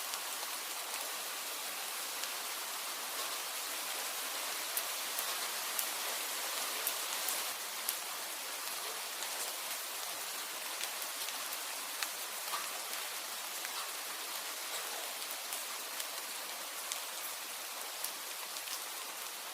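Steady rain, an even hiss of falling drops with scattered sharp ticks.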